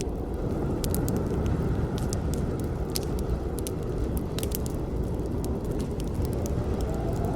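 Campfire burning: wood crackling with irregular sharp pops over a steady low rush of the flames.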